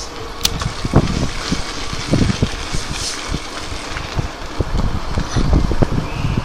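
Riding noise on an electric bike: wind buffeting the microphone in irregular low thumps, with a few sharp clicks from the bike.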